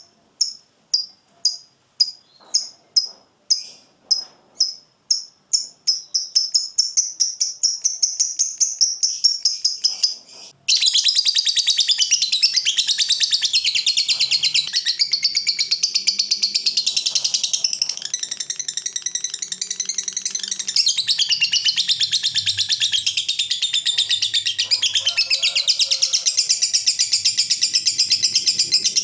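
Fighter lovebird's 'ngekek': sharp high calls about two a second that speed up into a fast rattling run, then about ten seconds in an abrupt switch to a dense, unbroken high chattering trill.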